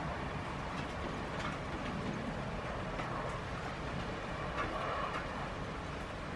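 Steady rain falling, with occasional single drops tapping a little louder.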